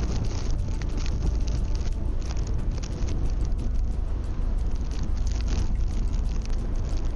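Steady outdoor street noise during a snowstorm: a constant low rumble with a crackling texture on top.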